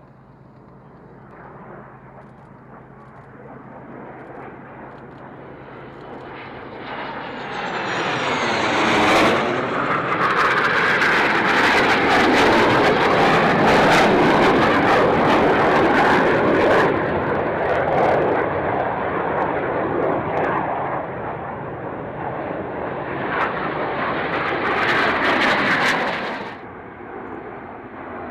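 Fixed-wing aircraft engines growing louder as the aircraft approaches, with a sweeping change in pitch as it passes close about nine seconds in. The engines stay loud with a strong hiss for much of the time, then fall away sharply near the end.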